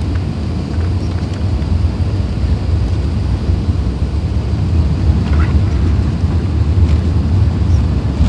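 Steady low roar of an Airbus A380 heard inside the passenger cabin: engine and airflow noise.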